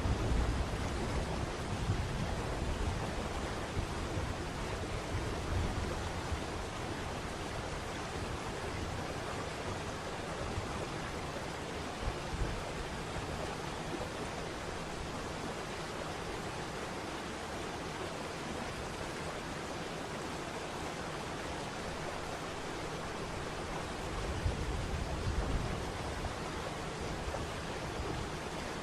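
Steady rush of falling water, with a stronger low rumble at the start and again briefly a few seconds before the end.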